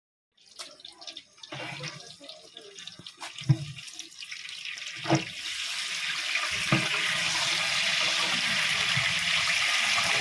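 Hissing sizzle from a large biryani pot on the fire, building steadily from about halfway through, with a few sharp metal knocks of utensils in the first half.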